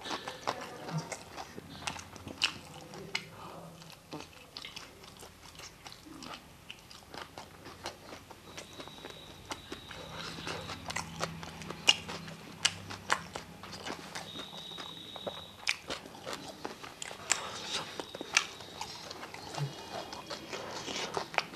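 A man chewing a mouthful of soft rice and paneer curry, with frequent wet mouth clicks and smacks.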